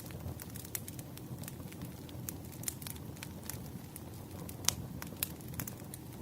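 Firewood burning in a campfire: a steady low rumble of flames with frequent irregular crackles and pops, one sharper pop about two thirds of the way in.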